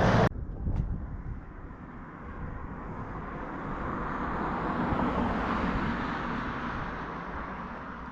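A vehicle passing on the road, growing louder to a peak about five seconds in and then fading away, over a steady low rumble.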